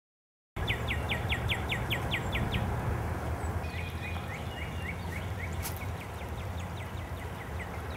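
A songbird singing quick runs of down-slurred whistled notes, about five a second, in two phrases, over a steady low drone. The sound starts about half a second in, and there is a single faint click near the middle.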